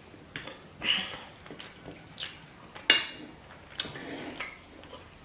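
Eating sounds at a meal of rice and stew: scattered clicks of cutlery on a plate mixed with small mouth and chewing sounds. The sharpest click comes about three seconds in.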